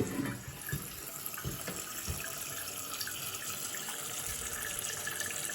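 Steady hiss of water running through household plumbing as a fixture fills, with the supply just turned back on after the winter.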